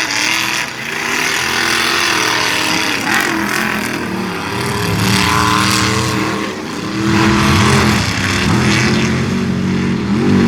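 Mud truck engine revving hard, its pitch rising and falling again and again, getting louder after about seven seconds.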